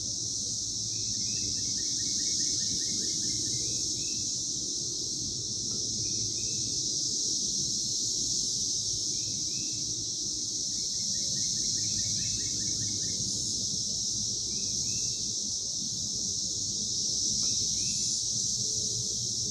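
Chorus of Brood XIV periodical cicadas: a steady, high-pitched, unbroken buzz.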